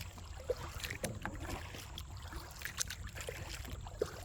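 Kayak being paddled along a shallow creek: scattered small splashes and knocks of the paddle in the water over a low steady rumble.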